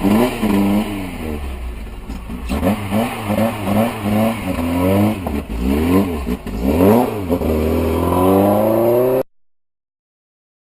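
A motor vehicle's engine revving up and down repeatedly in quick rises and falls. The sound cuts off abruptly about nine seconds in.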